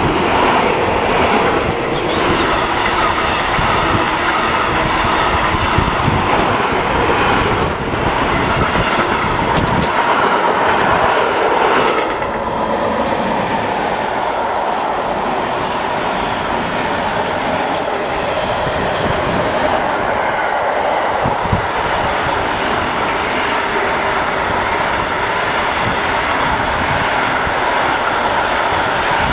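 A train passing on the track, its wheels running loud and steady on the rails; the sound eases a little about twelve seconds in.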